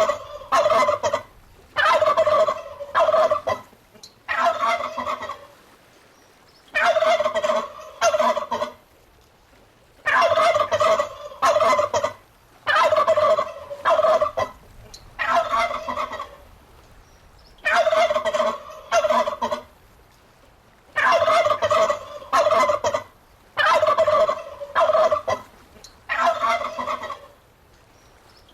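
Turkey gobbling over and over, each rattling gobble about a second long, coming in runs of two or three with short pauses between.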